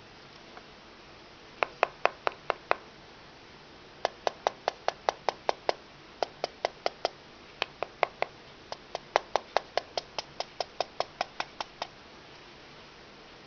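Rattle from the top of an iPhone 3GS's back cover: runs of sharp clicks, about four a second, in several bursts with short pauses between them. The rattle is the sign of something loose at the top of the back cover, and it is not the SIM card.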